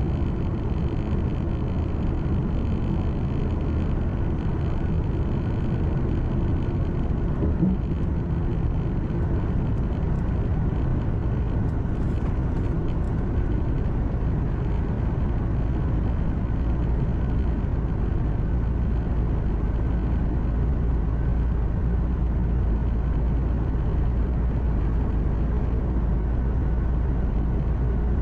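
Truck engine drone and tyre and road noise heard inside the cab while driving steadily, with one brief bump about eight seconds in.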